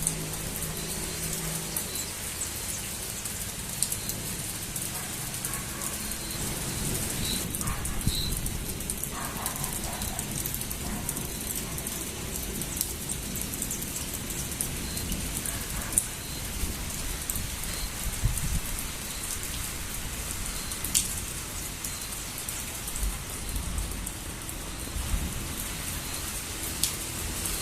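Steady, gentle rain falling, with single drops ticking sharply on nearby surfaces.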